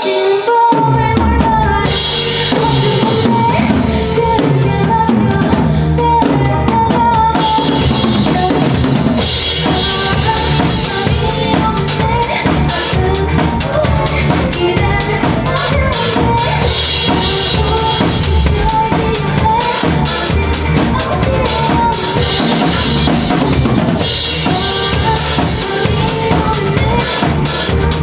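Live band playing an instrumental passage, the drum kit loud and driving a steady beat with bass drum, snare and cymbals over the bass and other instruments.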